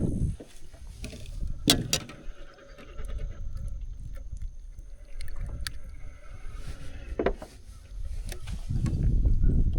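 Handling and boat noise on a small fishing boat: a low rumble that grows louder near the end, with five or so sharp clicks and knocks scattered through it.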